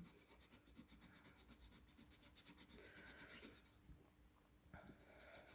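Faint scratching of a coloured pencil shading on paper, in quick back-and-forth strokes, fading out about halfway through.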